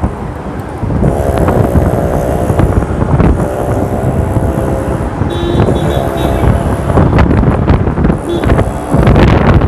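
Traffic and engine noise from a motorbike ride through city traffic, with wind buffeting the microphone. Several held pitched tones, each lasting about a second, sound over the rumble.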